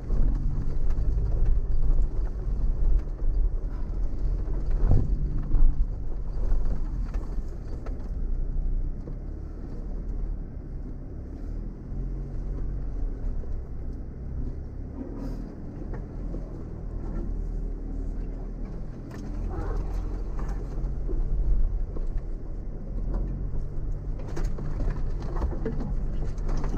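Off-road vehicle's engine running at low speed over a rough track, its low hum rising and falling, with scattered knocks and rattles as the vehicle goes over bumps.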